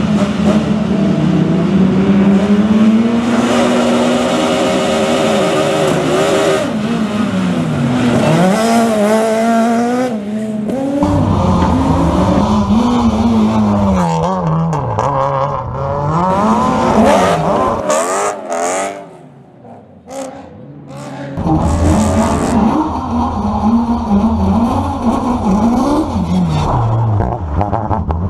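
Rally cars being driven hard, one after another: engines revving up and falling back again and again through gear changes. About 18 seconds in the sound dies down briefly, then another car comes through loud.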